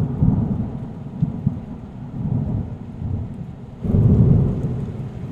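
Low, rough rumbling noise that swells about four seconds in, with no birdsong audible.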